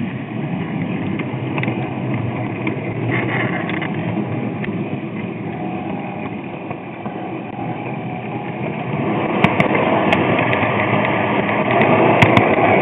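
G-scale model train running along the track, a steady rolling noise with scattered clicks that grows louder about nine seconds in.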